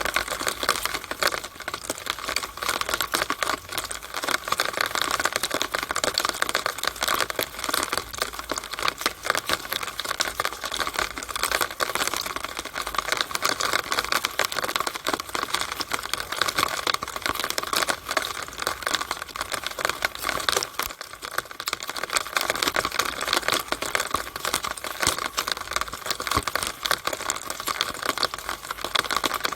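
Rainwater running and dripping through a downspout (rain drainpipe), a steady dense stream of rapid ticks and splashes.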